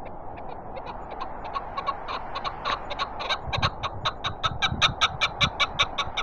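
Chukar partridge calling: a series of short clucking notes that speeds up and grows louder. Steady wind underneath, with low gusts buffeting the microphone in the second half.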